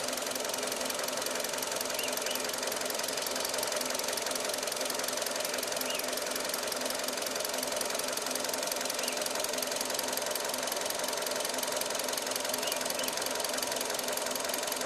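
2013 Hyundai i20 engine running steadily, with a fast, even ticking throughout.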